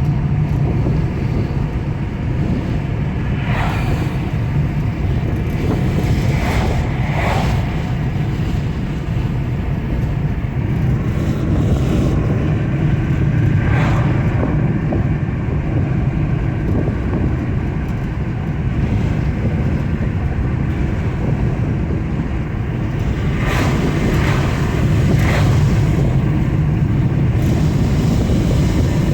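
Steady low road and engine noise inside a moving car, with a few brief swells of noise.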